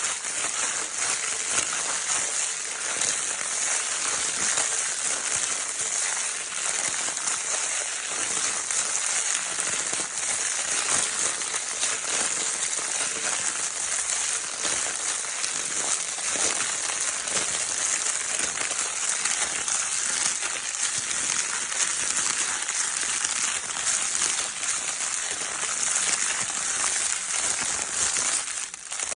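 Baby crinkle paper toy being crinkled continuously: a steady, dense, hissing crackle of many tiny clicks, dipping briefly near the end.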